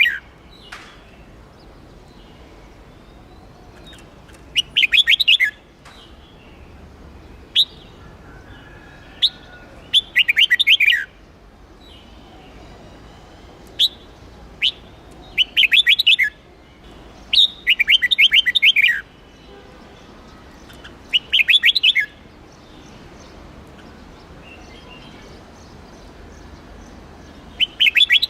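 Red-whiskered bulbul singing: about six short phrases, each about a second of quick notes that fall in pitch, spaced a few seconds apart, with single sharp notes in between.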